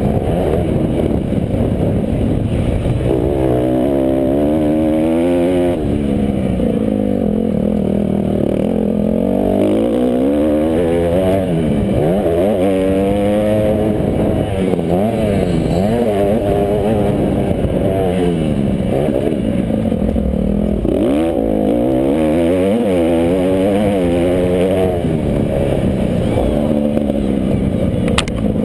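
Several motocross motorcycle engines racing, revving up and down through the gears with their pitches rising, falling and overlapping.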